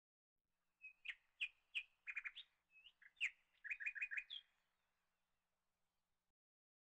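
A small bird chirping: a string of sharp, high chirps with two quick runs of rapid notes, lasting about four seconds and ending on a short rising note.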